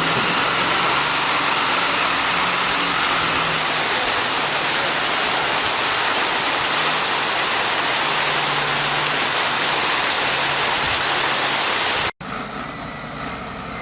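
A heavy vehicle engine running under a loud, steady rushing noise. The rushing noise cuts off abruptly near the end, and a quieter engine sound takes over.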